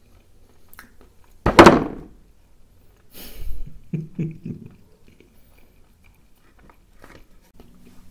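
Close-miked chewing, with one loud thump about a second and a half in. This is followed by softer rustling and handling noises as a cornmeal flatbread (makki roti) is lifted and torn.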